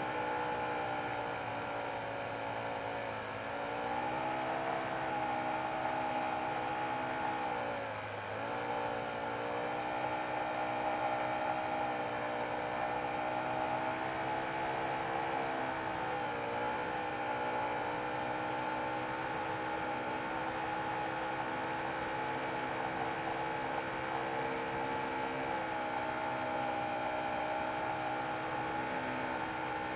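Nitro glow engine of a large RC model airplane running steadily in flight, its pitch dipping briefly three times as the throttle is eased back and opened again.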